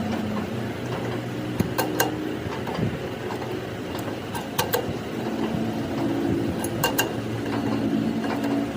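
Sharp metallic clinks, mostly in close pairs, three times over, against a steady low hum: metal tools or parts being handled and set down.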